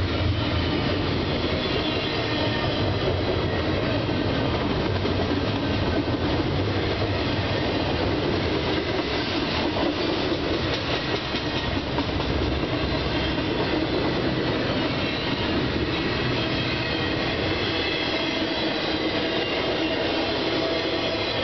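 CSX double-stack intermodal train's well cars rolling past: a steady noise of steel wheels running on the rails, with thin high wheel squeals over it.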